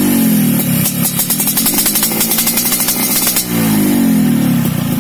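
Motorcycle engine through an aftermarket galvanized underbody exhaust with a 35 mm tube, blipped twice. After each blip the revs fall away, and in between the exhaust pulses come through as a rapid, even putter at low revs.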